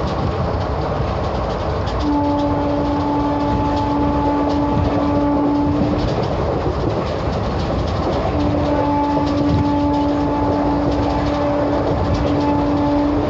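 A train running past with a steady rumble and wheel clatter, while its horn sounds two long blasts of about four and five seconds, each held on one steady pitch.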